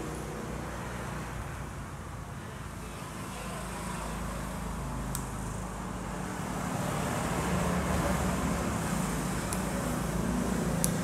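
Motorcycle engine idling steadily, a low, even rumble that grows a little louder in the second half.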